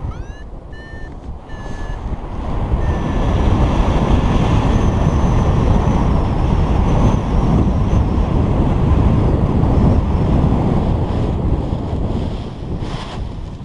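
Wind buffeting the microphone during a paraglider flight, a steady heavy rumble. Over it a flight variometer beeps: a rising chirp and a few short high beeps near the start, then a long, thin, faint tone of several seconds.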